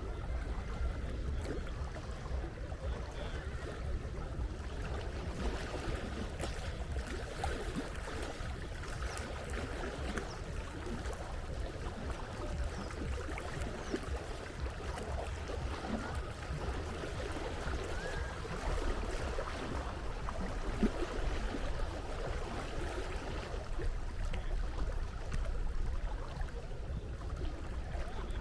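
Sea water washing and splashing, with a steady low rumble underneath.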